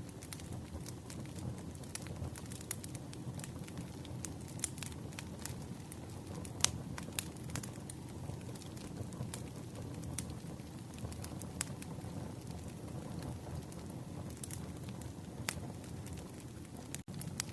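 Wood campfire burning: a steady low rush with scattered sharp pops and crackles, and a momentary cut-out just before the end.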